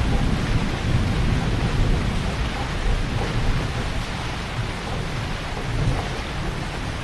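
Heavy rain pouring steadily, a dense even hiss with a deep low rumble underneath that eases slightly in the second half.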